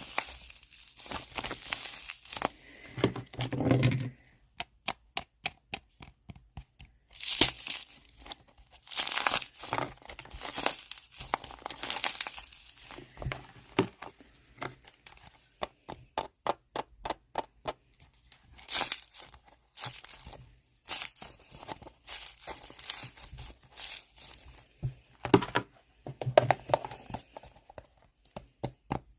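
Handmade tissue wax, a slab of tissue paper stuck together with tape, being peeled and torn apart. It crackles in fast runs of sharp clicks and longer rasping rips.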